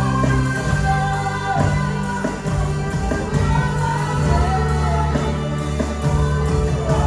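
Worship music: a band playing with singing, long held notes over a steady bass.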